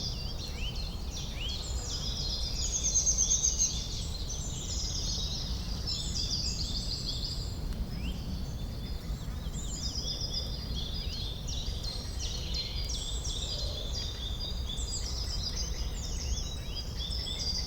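Forest ambience with several songbirds chirping and trilling continuously, overlapping calls, over a steady low background noise.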